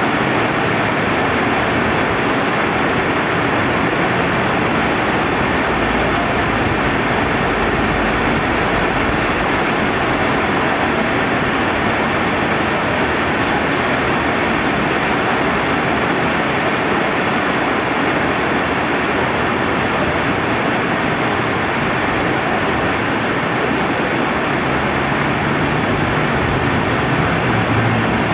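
Steady rain with flowing river water: a loud, dense, even hiss that never lets up.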